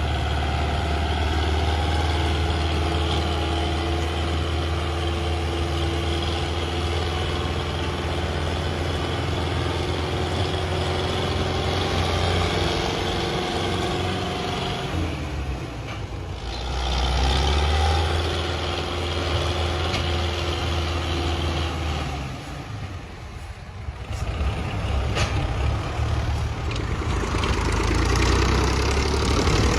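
Belarus tractor's diesel engine running with a steady low drone, its level dipping briefly twice, about halfway through and again about three quarters of the way through.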